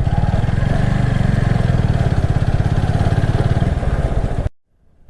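Motorcycle engine running steadily while riding, its firing pulses steady in pitch. The sound cuts out suddenly about four and a half seconds in.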